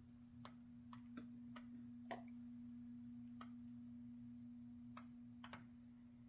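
Near silence: a steady low hum with a handful of faint, irregular clicks.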